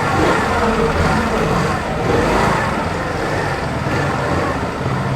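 Steady road and wind noise, a low irregular rumble, from riding a Hero Maestro Edge scooter through town traffic; the scooter's 110.9 cc single-cylinder engine is not heard apart from it.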